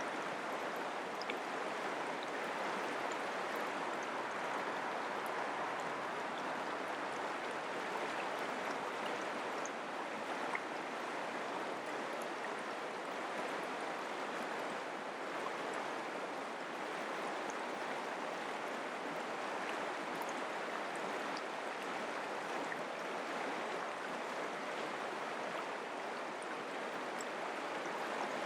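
Mountain creek running steadily, an even rush of flowing water with faint tiny splashes.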